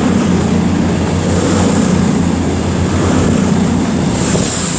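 Diesel engines of an Avanti West Coast Class 221 Super Voyager running steadily as the train pulls out of the platform.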